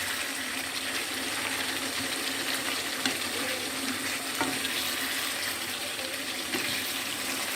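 Chicken bhuna frying in a pot, a steady sizzling hiss with a few faint ticks and pops.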